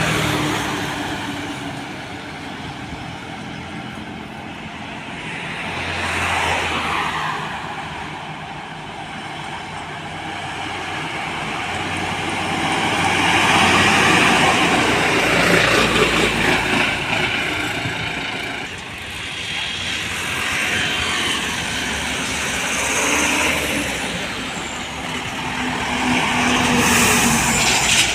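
Road traffic with heavy trucks going past one after another, the noise swelling and fading as each vehicle passes, loudest around the middle.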